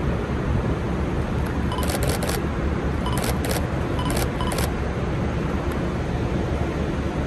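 Camera shutters clicking in three quick bursts of a few frames each, between about two and five seconds in, over a steady low rumble.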